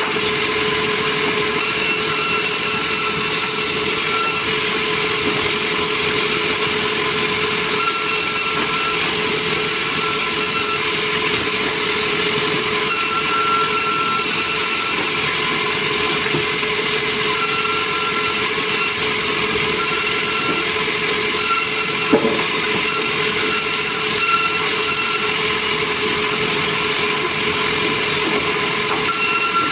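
Sawmill saw cutting meranti timber: a steady machine noise with a constant hum and a higher whine that comes and goes as the blade works through the wood. There is a single sharp knock about 22 seconds in.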